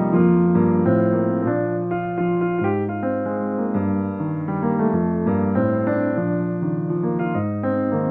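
Solo piano playing held chords that change every second or so.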